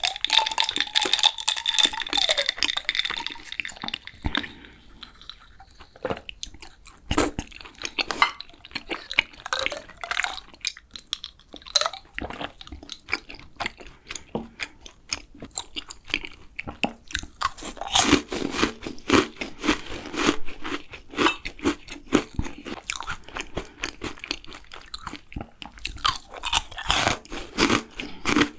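Close-miked eating of a macaron: crunching bites and chewing, heard as dense, irregular crackly clicks that grow busiest in the second half.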